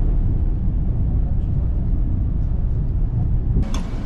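Steady low rumble of a KTX-Eum electric high-speed train running, heard from inside the carriage. Near the end a brighter, hissier sound with a few sharp knocks takes over.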